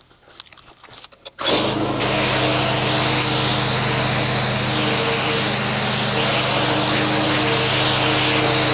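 Pressure washer starting up with a steady motor-and-pump hum. About half a second later it begins spraying, adding a strong steady hiss of water, as when rinsing a car.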